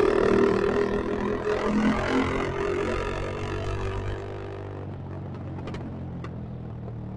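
Motorcycle engine running at high revs, its note falling and fading over about four seconds as the bike slows, then settling into a steady low idle.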